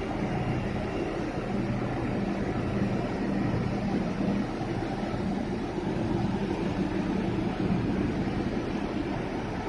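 Floating crane's engines running with a steady low drone and hum at a few fixed pitches, under load while lifting a heavy turbine runner.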